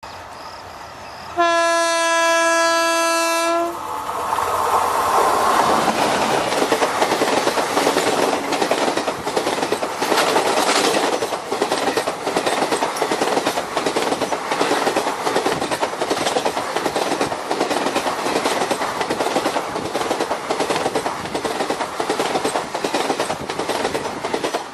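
ZDM-4A narrow-gauge diesel locomotive sounds one horn blast of about two seconds, then the train comes on across a steel railway bridge: engine running and wheels clattering rhythmically over the rails, growing louder as it nears.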